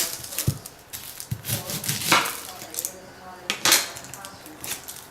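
Kitchen knife knocking and scraping on a cutting board while onions are trimmed and peeled, with scattered short knocks and two longer scrapes, about two seconds in and again past the middle.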